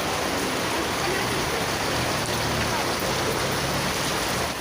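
Steady rushing of heavy rain and floodwater running through a flooded street.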